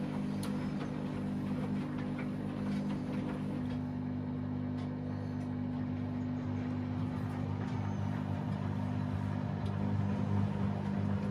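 Washing machine running: a steady motor hum whose pitch shifts slightly a few seconds in and again later, with a few faint clicks.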